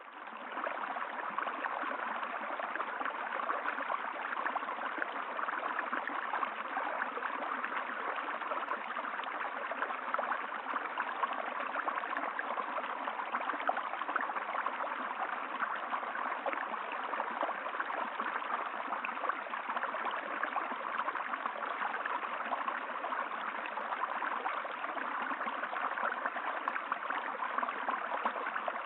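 Flowing stream water, a steady rushing and babbling that fades back in during the first second, then holds even.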